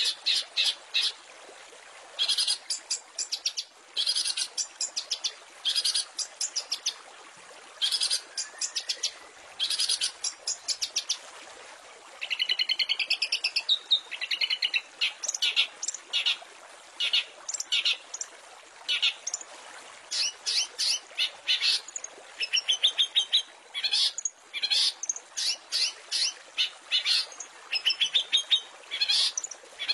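Long-tailed shrike singing: short, rapid bursts of sharp repeated chirps, one burst every second or two, with a longer run of harsher rising-and-falling notes about halfway through.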